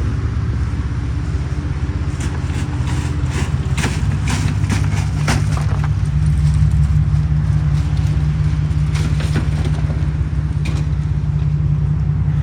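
A pickup truck's engine running with a steady low drone, with scattered clicks and knocks over it.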